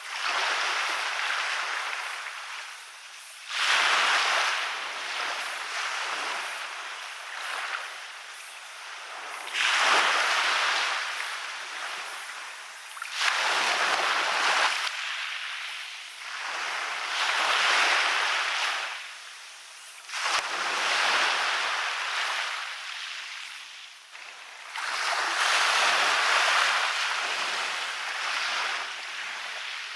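Waves breaking and washing up a beach, a surge every three to six seconds, about seven in all, each a rushing hiss that swells and then fades.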